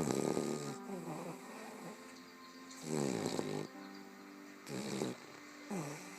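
A short-muzzled Boston terrier snoring in its sleep, a pitched snore every one to three seconds, the loudest at the start and about three seconds in. Background music plays throughout.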